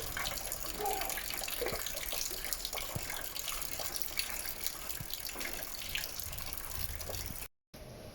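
Heavy rain falling, a steady hiss of water with splashing and dripping. It breaks off abruptly near the end and comes back quieter.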